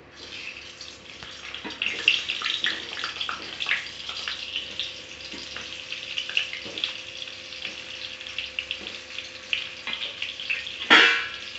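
Stuffed pointed gourds sizzling and crackling in hot oil in a steel kadhai as they are laid into the pan one by one, with a louder crackling burst near the end.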